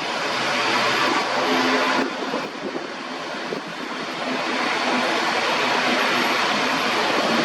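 Propeller airliner's engines heard from the ground: a steady rushing drone with a faint low hum, dipping slightly in loudness for a couple of seconds in the middle.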